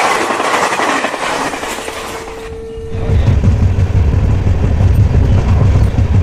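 Passenger express train running slowly through a station: wheels clattering over the rails. About three seconds in, a heavy, steady low rumble sets in and continues.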